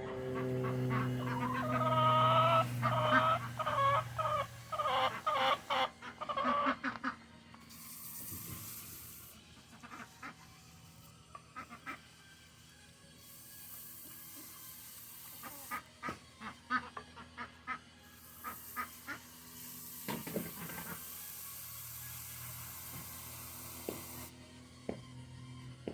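Birds calling in a loud, fast run of short calls from about two to seven seconds in, followed by quieter scattered clicks and brief calls.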